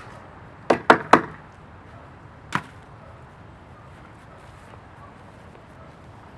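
Four sharp knocks: three in quick succession about a second in, then a single, weaker one a second and a half later.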